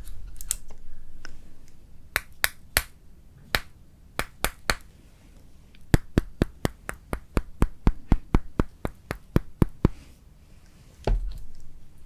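Frozen Shine Muscat grape tanghulu being chewed up close, its hard sugar-candy shell cracking in sharp crisp snaps. The snaps come scattered at first, then in a fast, even run of about four a second, with a dull thump near the end.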